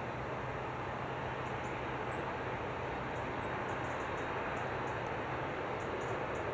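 Jet airliner engine noise: a steady rush with a low hum underneath, growing slightly louder near the end, with faint high chirps over it.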